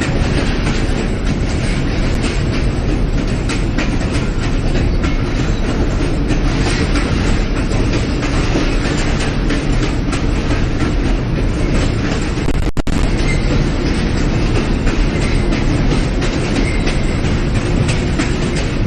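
New York City Subway J train running between stations, heard from inside the car: a steady loud rumble of wheels on rail with a rapid clickety-clack of rail joints. A split-second gap in the sound about thirteen seconds in.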